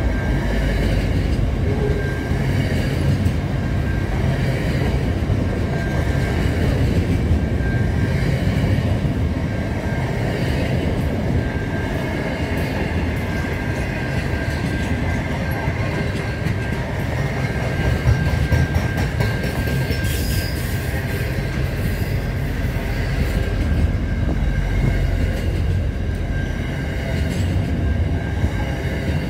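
Container freight train wagons rolling past at speed, a continuous low rumble of wheels on rail. A thin high wheel squeal comes and goes.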